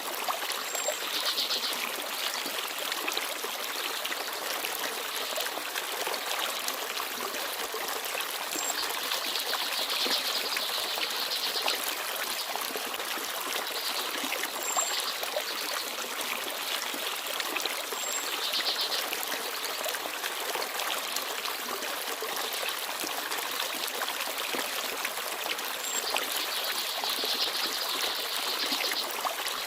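A small forest stream babbling and trickling steadily, with a few brief, high bird chirps every few seconds.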